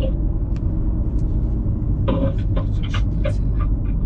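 Wind buffeting the microphone: a loud, steady low rumble with a few faint clicks, and a short muffled voice-like sound about two seconds in.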